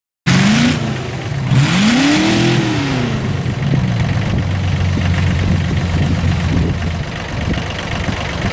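Mini modified pulling tractor's engine revving, twice rising and falling in pitch, then held at a steady pitch. It comes in suddenly just after the start.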